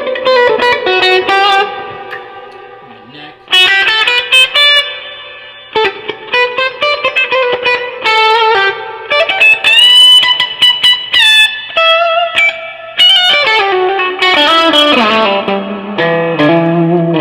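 1972 Gibson Les Paul Custom electric guitar with humbucking pickups, played through a Line 6 DT50 tube amp: a melodic lead of quick picked single notes and short phrases, with a few held notes bent upward. The tone is mildly overdriven with reverb.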